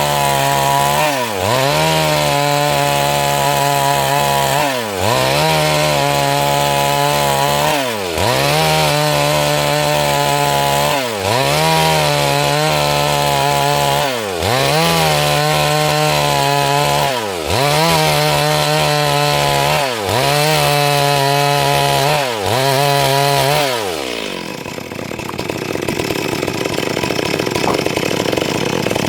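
Stihl MS 382 two-stroke chainsaw cutting wood at full throttle, its pitch dipping and recovering about every three seconds. About 24 seconds in it drops to a lower, rougher idle.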